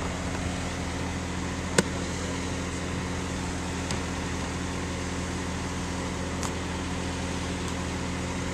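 Steady hum of an engine idling, with one sharp click about two seconds in.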